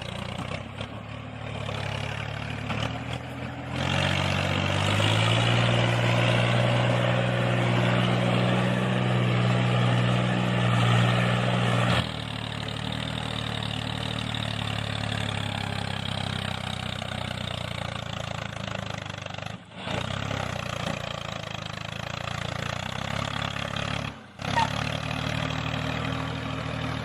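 Engine running with a steady drone, louder and higher from about four to twelve seconds in, broken off abruptly twice near the end.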